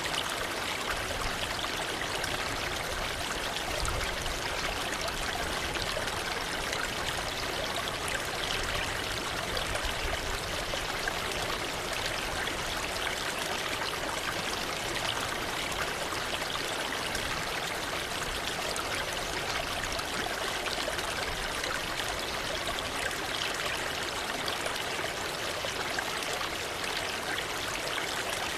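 Waterfall or fast stream of water splashing and rushing steadily, without let-up.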